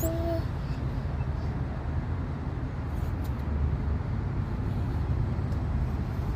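Ford Ranger 2.5i four-cylinder eight-valve engine running steadily with a low, even rumble; the owner says the engine has a noise.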